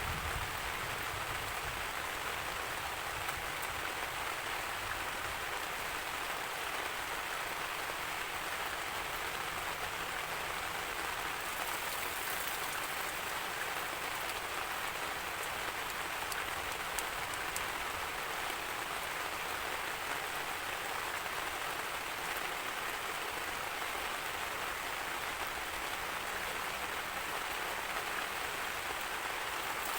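Steady rainfall, an even hiss of rain on surfaces that holds constant throughout.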